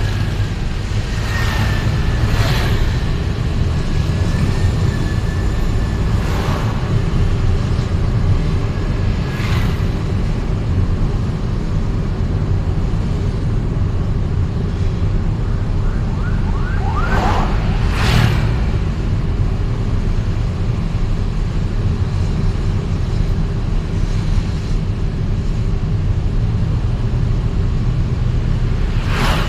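Steady low rumble of a vehicle driving on city roads, engine and road noise together, with other vehicles swelling past several times.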